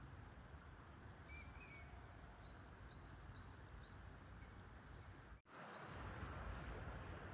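Outdoor ambience: a steady low hiss with a small bird calling a quick series of short chirps, about two or three a second, through the first half. About five seconds in the sound cuts out for an instant, and the hiss comes back a little louder.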